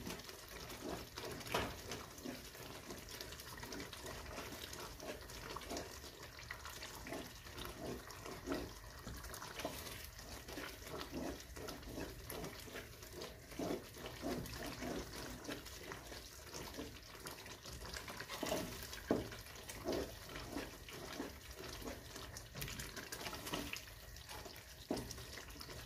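Minced beef frying in oil in a non-stick pot, a quiet steady sizzle, with a wooden spatula scraping and knocking against the pot in many short clicks as the mince is stirred.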